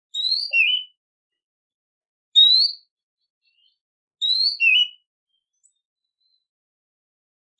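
Recorded songbird calling: three short, clear whistled calls about two seconds apart, each a quick rising whistle, two of them followed by a short lower note.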